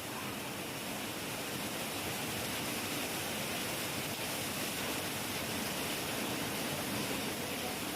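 Heavy rain falling steadily as an even hiss, swelling slightly about a second in.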